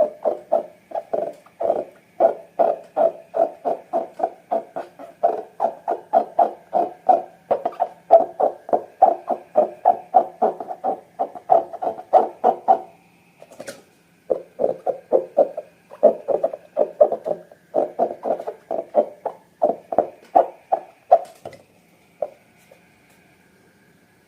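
Slime being squeezed and pressed by hand in a steady rhythm, wet squelches about three a second. They pause briefly about halfway through and stop a few seconds before the end.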